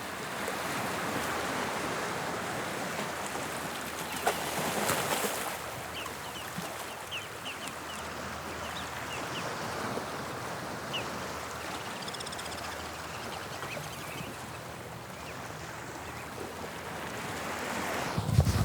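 Sea waves breaking and washing on the shore of the English Channel, a steady rush of surf that swells to a louder wash about four seconds in.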